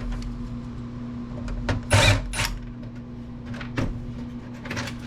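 Clicks and knocks of computer parts being handled and set down, the loudest a short clatter about two seconds in, over a steady low hum.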